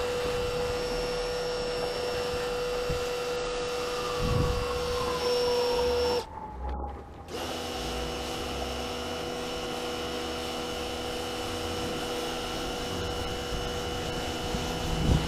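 A small electric motor in a power tool running steadily with a constant whine. It cuts out for about a second partway through, then runs on with a slightly changed tone.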